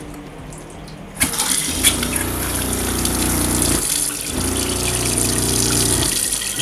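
RV fresh-water pump humming in spells of about two seconds, stopping briefly and starting again as it keeps up pressure on demand, while water runs from an opened faucet. The water starts about a second in.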